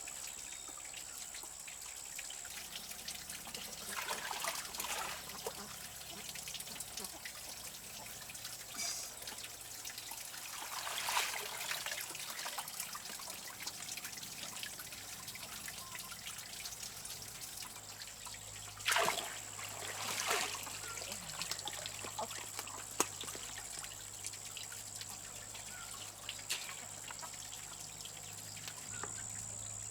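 Water trickling steadily, with a few louder brief rushes of noise.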